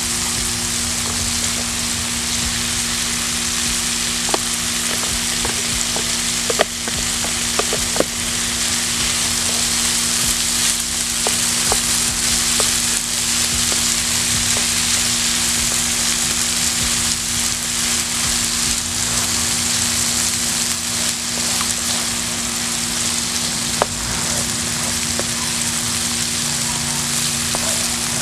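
Boneless chicken thighs and peppers sizzling steadily in oil in a non-stick frying pan over a wood fire, stirred with a spatula, with a few sharp clicks now and then.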